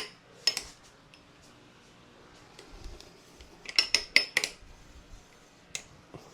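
Metal parts being handled, clinking and clicking: a couple of sharp clicks at the start, then a quick cluster of clinks about four seconds in and a single click near the end.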